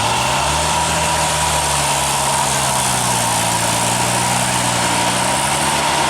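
Motor vehicle engine running, its pitch rising about half a second in and dropping again near the end, with a steady high tone underneath.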